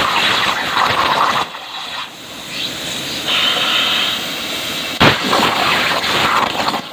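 CNC plasma cutting machine at work: the plasma torch arc hissing loudly, dropping away about a second and a half in and striking again abruptly about five seconds in, with a whine that rises and falls in pitch.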